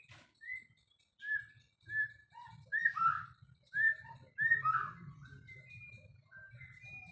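White-rumped shama singing: a quick run of short, clear whistled notes, several gliding downward, loudest in the middle.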